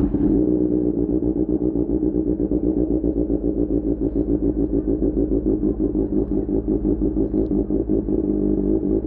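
Exhaust note of a QJ Motor SRK600's inline-four engine through an Austin Racing GP1R exhaust, running at a steady speed with an even, pulsing beat and no revving.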